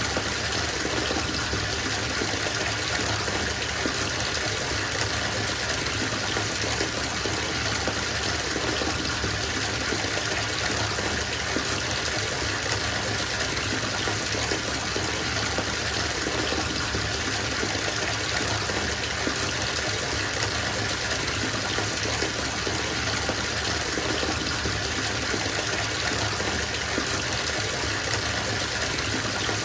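Water running from a tap into a bathtub, a steady, unbroken gush of falling water splashing into the filling tub.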